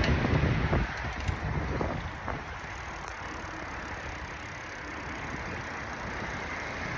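Riding a bicycle with wind buffeting the microphone: a heavy low rumble for about the first second, then a steady rushing noise.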